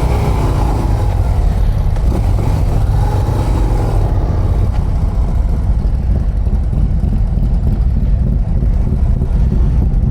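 Harley-Davidson CVO ST's 121 cubic-inch Milwaukee-Eight V-twin running steadily under way, with a heavy low rumble and wind noise on the microphone.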